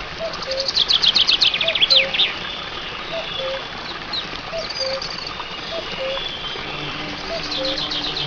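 Birds chirping: two bursts of fast, high repeated notes, one about a second in and one near the end, over a lower two-note call that repeats steadily about every three-quarters of a second.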